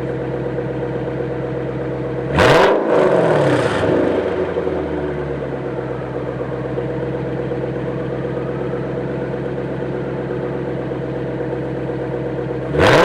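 Lexus IS500's V8 idling steadily, blipped once about two and a half seconds in with a quick rise and fall in pitch, then blipped sharply again near the end.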